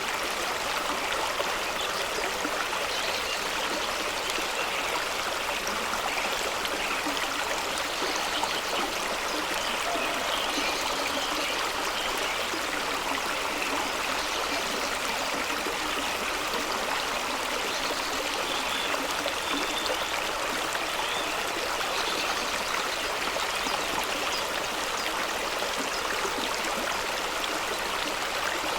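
Fast-running stream rushing and splashing over rocks at the foot of a small waterfall: a steady, unbroken water noise.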